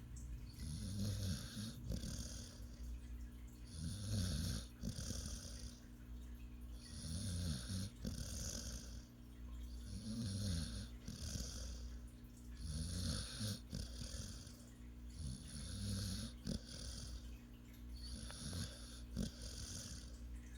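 A sleeping dog snoring, each rough breath swelling and fading about every three seconds.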